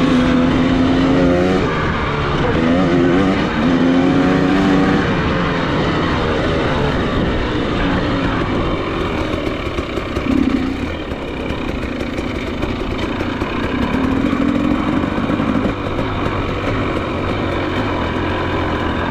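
Enduro motorcycle engine running under riding, its pitch rising and falling as the throttle is opened and closed, with the strongest revs in the first few seconds.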